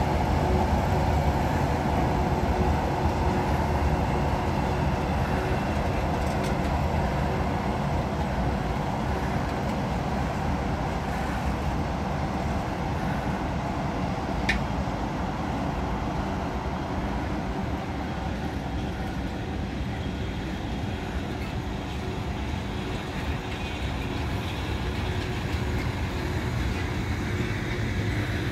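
Freight train of open coal wagons behind an ET42 electric locomotive rolling slowly past, a steady rumble of wheels on rail that eases a little toward the end. One short sharp click or squeak is heard about halfway through.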